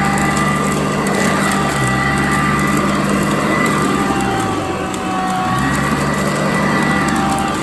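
Sanitaire vacuum cleaner running over carpet, a steady motor hum; its pitch sags briefly about halfway through and then comes back up.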